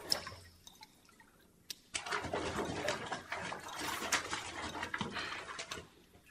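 Water sloshing and splashing in a bathtub, starting about two seconds in and lasting about four seconds.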